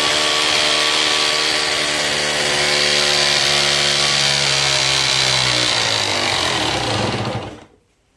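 Power tool motor running steadily at full speed with a hissing whine, then switched off about seven seconds in and winding down with falling pitch.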